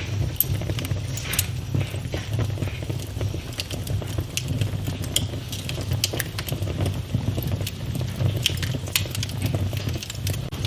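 Fire burning in a fireplace, crackling with many irregular sharp pops over a steady low rumble of flames.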